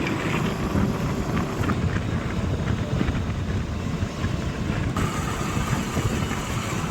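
Wind rushing over the microphone over the steady rumble of a moving vehicle; the hiss brightens about five seconds in.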